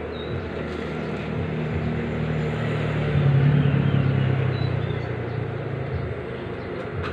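Motor hum with a low steady tone that builds to its loudest about three to four seconds in, then eases off.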